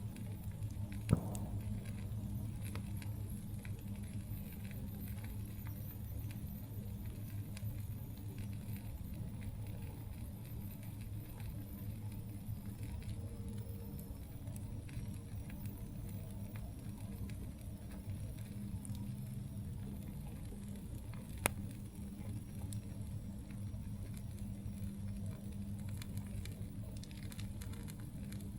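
Campfire burning with scattered faint crackles and two sharp pops, one about a second in and one about twenty seconds later, over a steady low rumble.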